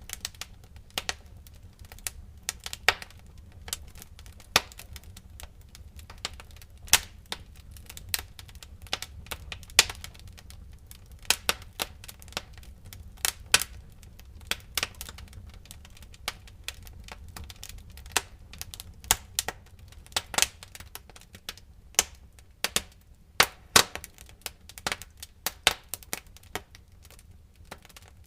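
Wood fire in a fireplace crackling, with irregular sharp snaps and pops of varying loudness over a low steady rumble.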